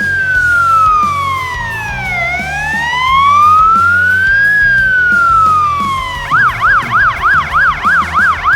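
Fire engine's electronic siren sounding a slow wail, falling and then rising once, then about six seconds in switching to a fast yelp of about four cycles a second. Music with a steady beat plays underneath.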